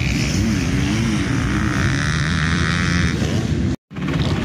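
Motocross bike engines revving on the track, their pitch rising and falling with the throttle. The sound cuts out for a split second near the end.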